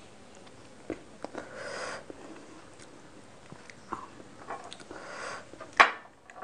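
Close-miked mouth sounds of someone eating fish curry and rice by hand: wet chewing clicks and smacks, with two short breathy swells. A sharp, loud smack comes near the end.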